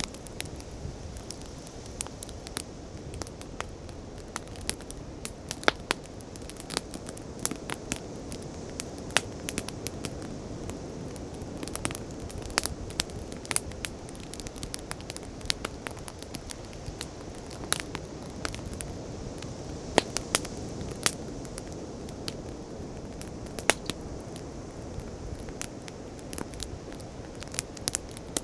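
Bonfire crackling, with irregular sharp pops and snaps, some much louder than the rest, over a steady rushing wash of sea waves.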